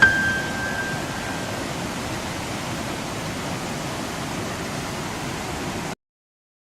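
Steady rushing of whitewater river water, with the last piano note of the soundtrack fading out over the first second or so. The sound cuts off abruptly about six seconds in.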